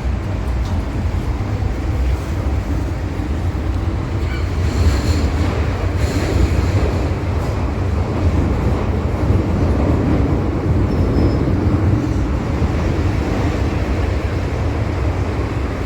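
MTR M-Train electric multiple unit running through the tunnel between stations: a steady, loud rumble of wheels and traction equipment on the track. A couple of brief higher-pitched sounds come through about five and six seconds in.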